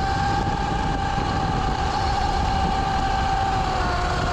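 Sur-Ron electric dirt bike motor whining steadily at riding speed, its pitch easing down a little near the end, over a low rush of wind and tyre noise.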